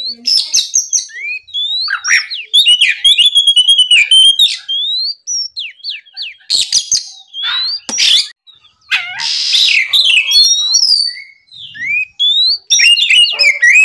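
Oriental magpie-robin (kacer) singing loudly: varied whistled phrases of rising and falling notes and quick trills, broken by a few harsh rasping notes near the middle.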